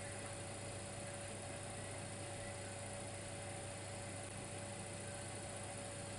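Dimplex electric fireplace heater running: a low, steady hum with an even hiss, with no change over the whole stretch.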